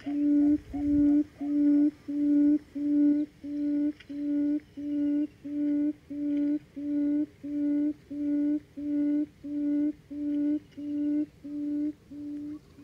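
Buttonquail's call: a long series of low hooting notes at about two a second, slowly fading away and stopping near the end.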